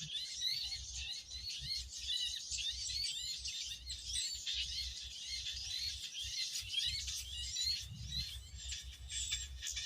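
Many small birds chirping in a dense, continuous chorus of short, high, quick up-and-down chirps, with a low rumble underneath.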